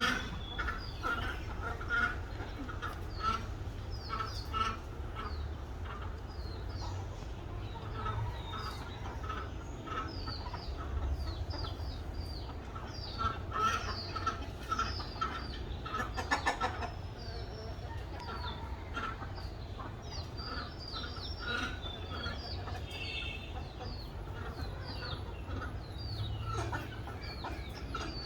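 Birds calling repeatedly: a busy run of short clucking notes and quick falling chirps, over a steady low rumble.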